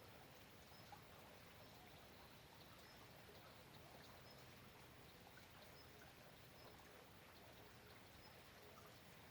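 Faint, steady rain: an even hiss with small scattered drips. A short, faint high chirp repeats about once a second.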